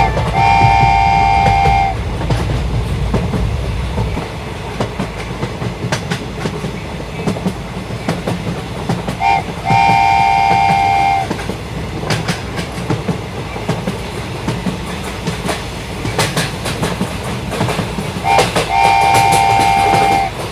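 Train horn sounding three long blasts about nine seconds apart, the later two each preceded by a quick double toot, over a steady rolling clatter of train wheels on track.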